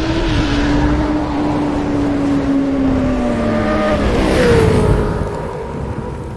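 Motorcycle engine running, its note holding steady and then slowly sinking as the revs drop off, with a second engine note sliding down about four and a half seconds in.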